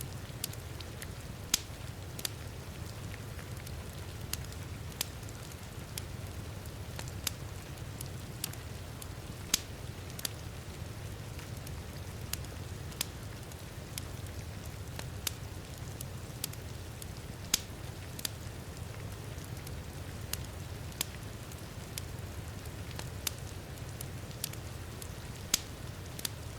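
Wood fire crackling, with sharp irregular pops about once a second, over a steady wash of heavy rain with a low rumble.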